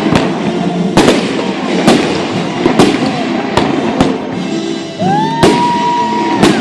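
Fireworks display, aerial shells bursting in loud bangs roughly once a second, with music playing underneath. About five seconds in, a whistle rises and holds for over a second.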